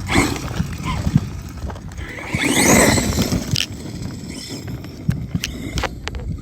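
Electric RC car running over rough ground: irregular knocks and scrapes of tyres and chassis, with a brief rising motor whine a little past halfway.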